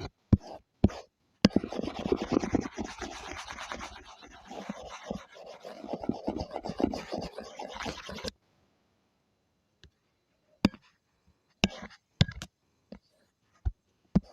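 A drawing tool scratching and rubbing steadily across paper in quick, dense strokes. The strokes stop a little over halfway through, and a few isolated short taps follow.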